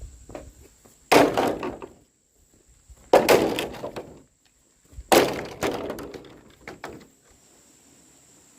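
Three loud clattering crashes of hard objects, about two seconds apart, each breaking up into a rattle of smaller knocks that dies away over about a second.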